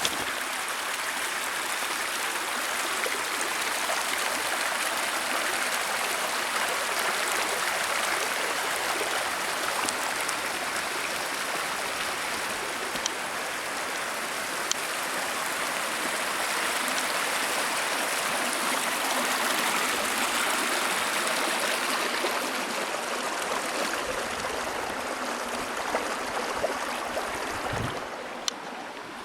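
Running water from a stream, a steady rush, with a few small clicks over it.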